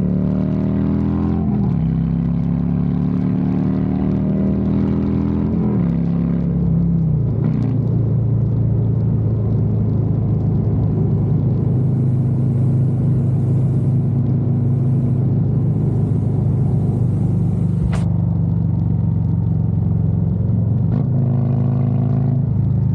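Harley-Davidson Road Glide's V-twin engine accelerating, rising in pitch twice with a gear shift between, then cruising at steady revs. A single sharp click comes late on.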